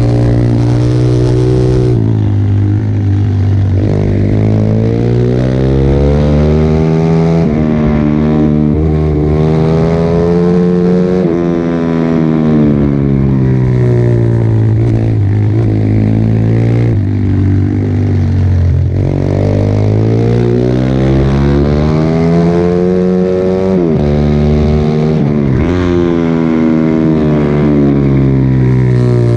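Pit bike's small single-cylinder four-stroke engine under hard riding, its pitch climbing as it accelerates and dropping off again every few seconds, as through a run of corners.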